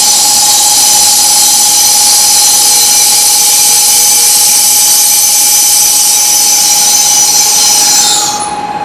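Shinkansen train arriving and braking along the platform: a loud, steady high whine and squeal with one ringing tone, easing about eight seconds in as the train comes to a stop.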